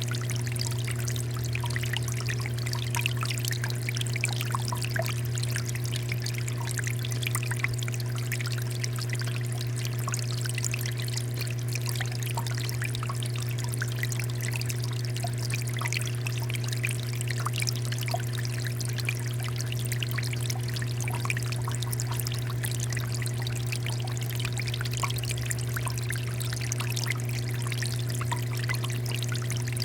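Water fountain pouring and splashing steadily, a continuous trickle with many small droplet patters, over a steady low hum.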